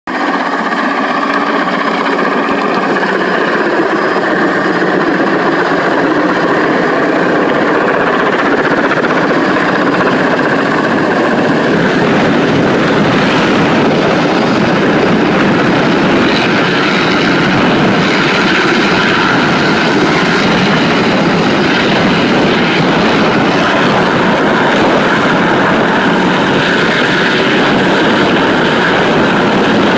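Helicopter running close by, its rotor and engine giving a loud, steady din with a thin high whine above it.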